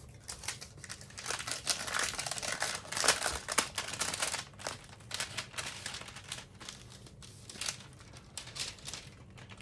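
Backing liner being peeled off an adhesive sheet and handled, crinkling and crackling. The sound is busiest in the first few seconds and thins out toward the end.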